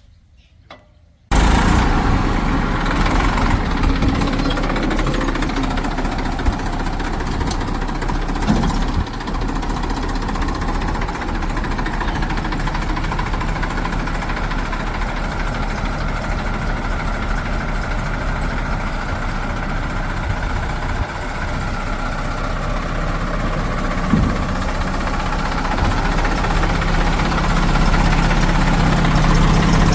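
Diesel engine of heavy farm or construction machinery running steadily. It cuts in abruptly about a second in, with a few faint knocks over it, and grows a little louder near the end.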